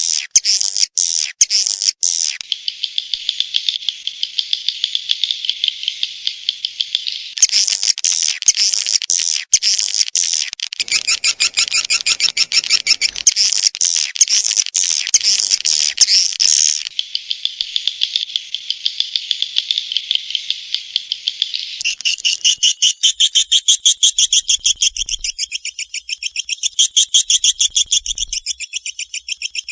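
Swiftlet lure call track of edible-nest swiftlets: fast, dense twittering chirps in a continuous rapid pulse, the pattern changing several times.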